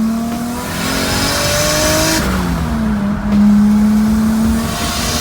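Turbocharged Toyota 2JZ-GE inline-six pulling hard under acceleration, its pitch climbing, falling at a gear change a little over two seconds in, then climbing again.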